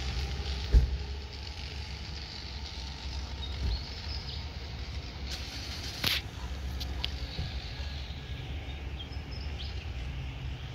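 Tilt train running away down the line, a low steady rumble that eases off after the first couple of seconds as it recedes. A sharp thump about a second in and a click about six seconds in; birds chirp faintly.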